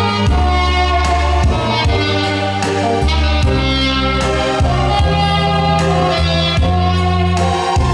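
Saxophone playing a slow melody in long held notes over a recorded backing track with a bass line and steady beat.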